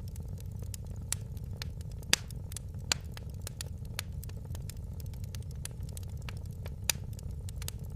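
Wood fire in a fireplace crackling: frequent sharp snaps and pops over a steady low rumble, with a few louder pops scattered through.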